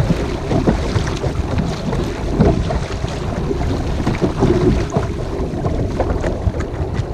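Wind blowing on the microphone while a kayak is paddled, with irregular short splashes of the paddle blades in the water.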